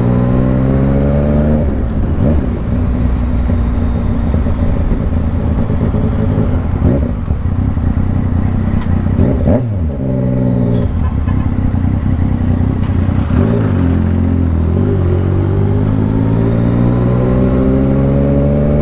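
Motorcycle engine under way, pulling hard through the gears: its pitch climbs steadily, drops sharply at each upshift and climbs again, several times over.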